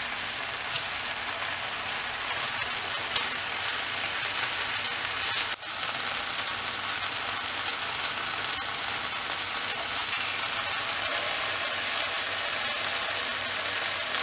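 Marinated paneer pieces sizzling steadily in a little oil on a hot grill pan over a low flame, with a few light clicks of metal tongs as the pieces are turned over.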